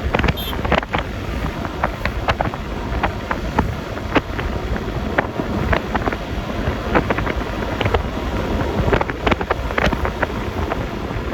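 Wind buffeting the phone's microphone on a moving Yamaha Lexi LX 155 scooter, with road noise underneath and frequent short crackles from the wind hitting the mic.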